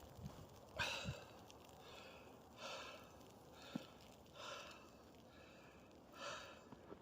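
A person breathing hard and evenly, four short hissing breaths about two seconds apart, with a faint click between the second and third.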